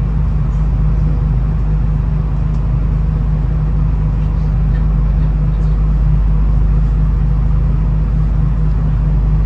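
V/Line VLocity diesel railcar, heard on board, giving a steady low rumble with a faint even hum above it.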